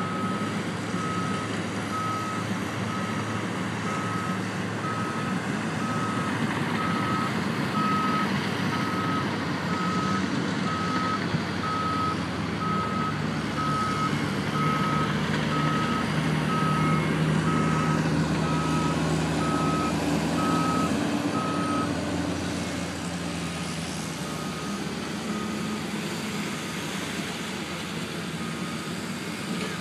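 Vehicle backup alarm beeping evenly, a bit more than once a second, over a running engine. The beeps grow faint about three-quarters of the way through.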